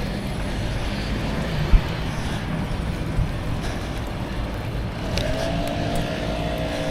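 Bicycle riding noise picked up by a neck-mounted action camera: wind on the microphone and tyres on the path, a steady low rumble with one light knock about two seconds in. A steady humming tone joins about five seconds in.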